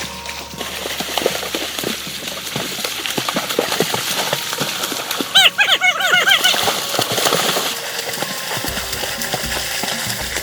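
A run of light knocks, with a wavering animal call about halfway through.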